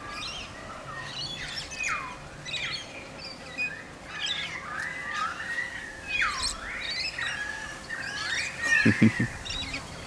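Several birds calling continuously, a busy mix of squawks and swooping chirps. A brief low pulsing sound comes about nine seconds in.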